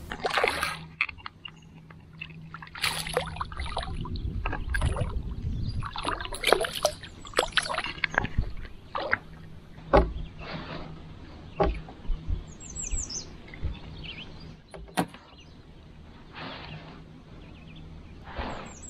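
Kayak on the water: scattered knocks of paddle and fishing gear against the hull and small splashes, with birds calling. About two-thirds through, a bird gives a short run of quick falling notes.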